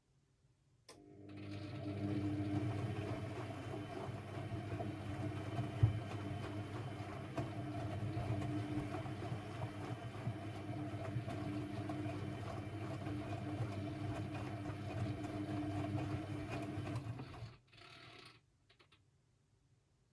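Constructa Energy 1000s washing machine starting with a click and running steadily for about sixteen seconds, then dropping briefly to a quieter hum and stopping.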